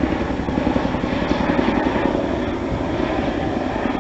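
Helicopter flying over: a steady engine and rotor sound with a fast, even pulse in the low end.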